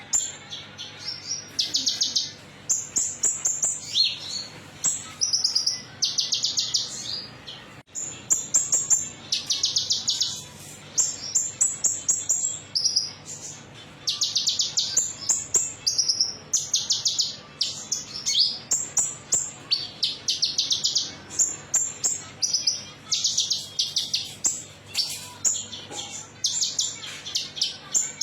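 Konin (olive-backed sunbird) song used as a lure: fast, high chirping trills in short bursts, one after another, over a faint steady low hum.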